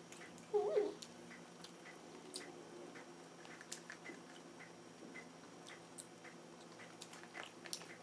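Quiet chewing of French fries, with faint scattered wet clicks from the mouth. About half a second in there is a brief sound that rises and falls in pitch.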